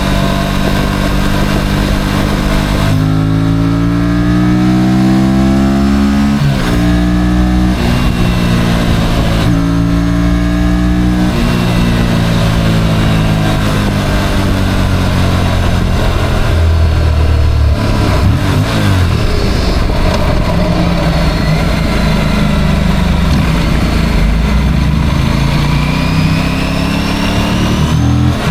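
Motorcycle engine heard from on board while riding, rising in pitch as it accelerates and dropping at each gear change, twice in the first half. After that it runs more steadily with a rushing noise.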